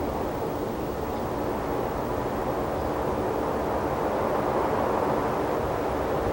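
A steady, even rushing noise in the open air that grows slowly louder toward the end.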